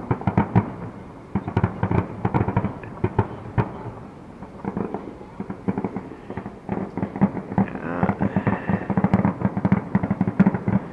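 Fireworks grand finale: a dense, rapid barrage of aerial shells bursting, many reports a second, easing off briefly midway and then building again.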